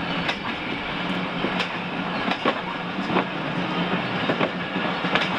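Passenger coaches rolling past close by, their wheels clacking over the rail joints in an irregular run of sharp clicks over a steady rumble with a low hum underneath.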